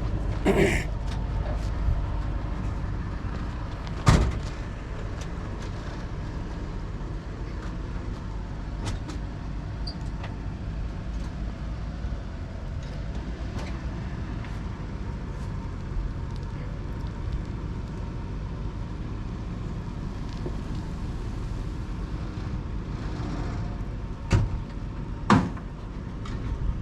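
A vehicle engine running steadily with a low rumble. There is one sharp knock about four seconds in and two more close together near the end.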